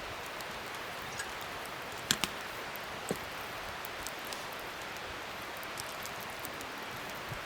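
Wood fire burning: a steady hiss with scattered sharp crackles and pops, the loudest a quick pair about two seconds in and another about a second later.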